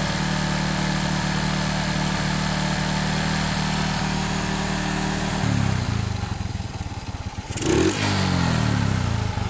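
Single-cylinder engine of a Honda XRM 125 motorcycle running at a steady raised speed, then dropping in pitch as the throttle is let off about five seconds in, and rising and falling again near the end.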